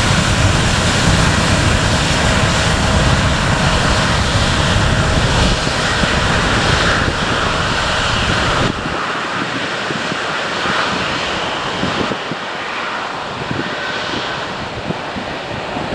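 Departing jet airliner's engines at takeoff power, a loud, even rush heavy in the low end. A little over halfway through it drops off suddenly to a thinner, wind-blown rush.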